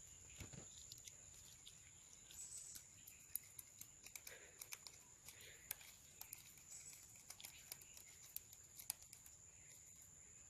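Near silence: faint scattered clicks and ticks over a steady, thin high-pitched tone.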